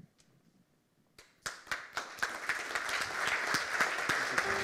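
Audience applause: after a moment of near silence, many hands start clapping about a second and a half in, and the clapping swells.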